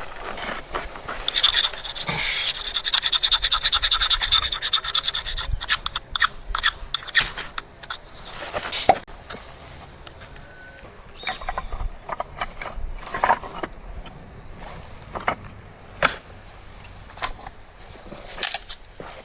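Rapid back-and-forth scraping for about five seconds, then scattered single scrapes and light knocks.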